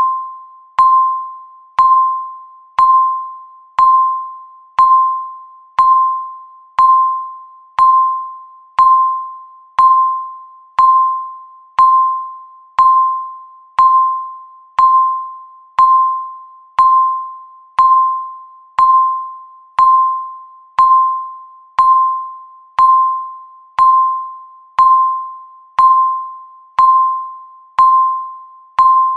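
Countdown timer's tick sound, once a second: each tick a sharp electronic strike ringing at one steady pitch and fading away before the next, like a small bell.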